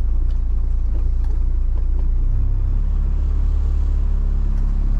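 A trawler's engine running steadily under way, a low droning note whose tone shifts slightly about two and a half seconds in, with wind noise.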